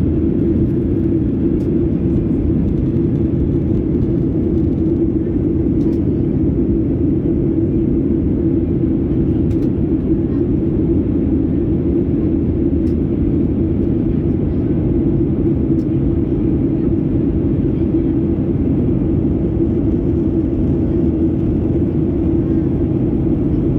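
Boeing 737-800 cabin noise in flight: its CFM56 engines and the airflow make a steady, low rushing noise, with a few faint ticks.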